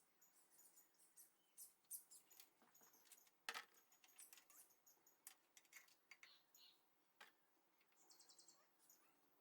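Near silence with faint scattered high-pitched clicks and ticks, one sharper click about three and a half seconds in and a quick run of ticks near the end.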